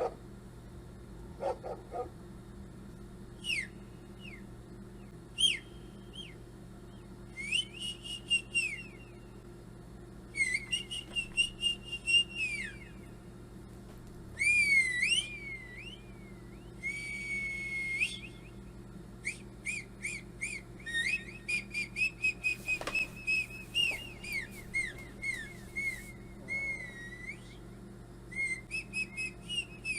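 Recorded whistles played back through a speaker: a string of short chirps, up-and-down glides and quick trills, with runs of rapid warbling in the second half, over a steady low hum.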